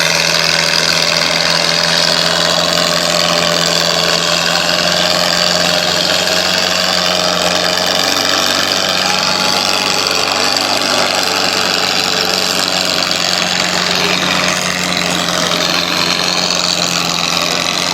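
Tractor engine running loud and steady, with no break or change in pitch.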